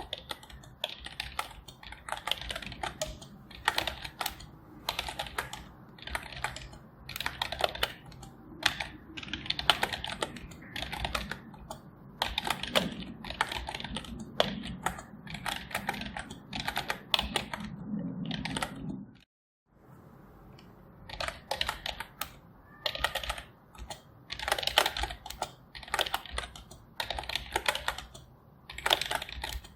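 Computer keyboard typing: quick runs of keystroke clicks in bursts with short pauses between them. The sound cuts out completely for a moment a little under two-thirds of the way through, then the typing carries on.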